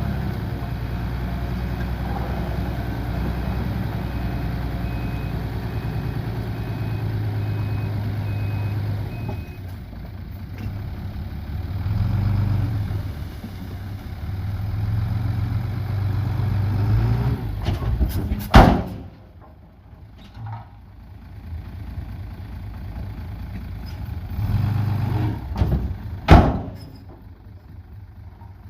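Heavy diesel engines of a dump truck and a Komatsu D31P bulldozer running, revving up about twelve seconds in, with a faint reversing beeper in the first several seconds. Two loud, sharp sounds stand out, one about two thirds of the way through and one near the end.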